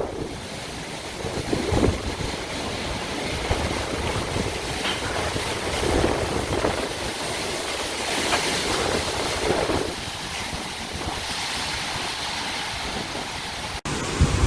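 Rushing noise of tropical-storm weather, swelling and easing in gusts, with a brief drop-out near the end.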